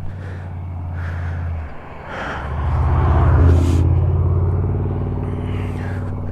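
Motorcycle engine idling steadily, with a short dip about a second and a half in, then a swell in loudness about halfway through that eases off again.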